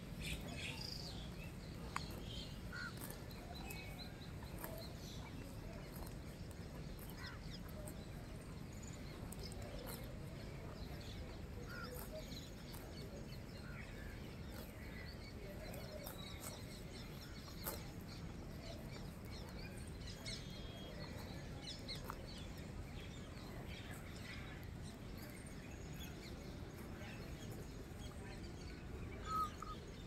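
Quiet outdoor ambience: faint, scattered bird chirps over a low, steady background noise, with a few short clicks and one louder chirp near the end.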